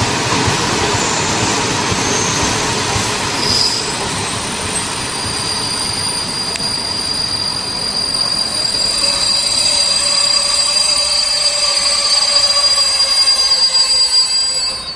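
Passenger coaches rolling slowly along the rails, with a high, steady metallic wheel squeal setting in a few seconds in and holding as the train slows.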